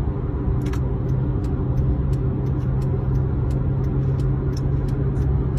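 A steady low rumble with a hum, with short high ticks or chirps repeating throughout.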